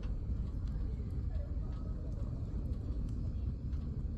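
Firewood crackling in a campfire: scattered faint pops and snaps over a steady low rumble of campsite background.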